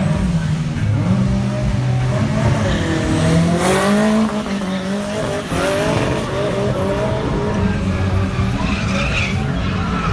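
Racing car engine revved up and down, its pitch rising and falling repeatedly as it is driven hard, with a short loud burst of noise about three and a half seconds in.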